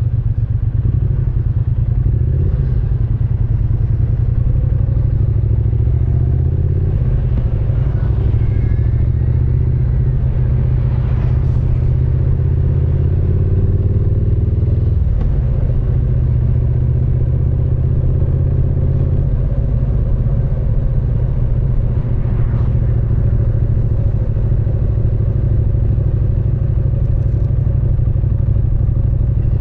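Triumph Speed Twin 900's parallel-twin engine and exhaust under way, heard from the rider's seat, the engine note rising and dropping several times with throttle and speed.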